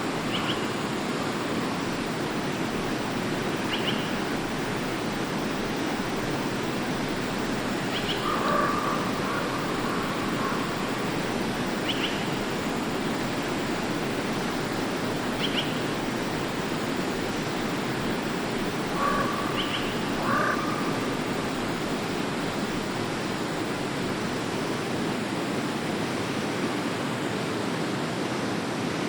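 Forest stream flowing steadily. Over it, a short high chirp sounds about every four seconds, and two longer, lower calls come about a third and two-thirds of the way through.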